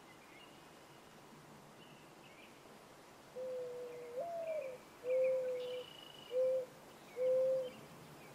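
Birdsong: faint high chirps from small birds throughout. About three seconds in, a dove coos one long low note that rises and falls back, then three shorter hoots.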